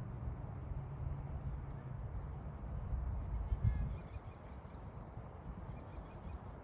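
Steady low rumble of wind on the microphone, with a small bird chirping in two short runs of rapid high notes, about four and six seconds in.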